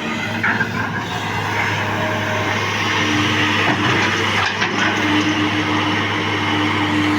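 Excavator's diesel engine running steadily under load, with a constant hum and a higher steady tone that comes in partway through. Two brief knocks are heard, one near the start and one a little past the middle.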